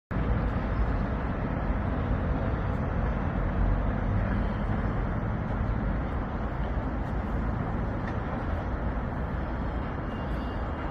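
Steady city street noise: a constant rumble of road traffic.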